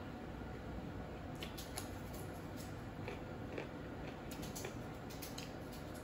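A person eating: scattered soft clicks and smacks of chewing, bunched together about halfway through, over a steady low hum.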